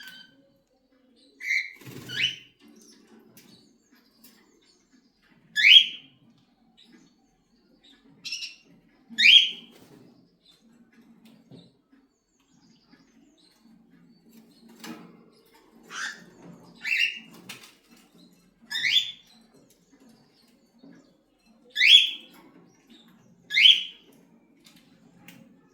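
Cockatiel giving short, sharp chirping calls, about a dozen spread irregularly and often in quick pairs, with a faint low rustling between them.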